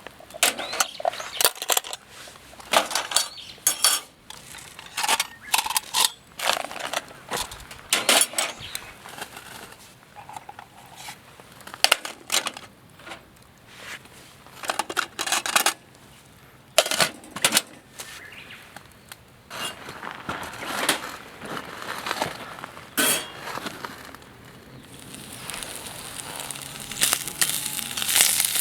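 Camp cookware and utensils clinking and knocking in separate sharp strikes. Near the end, a steady sizzle of food frying in a hot pan starts up and grows.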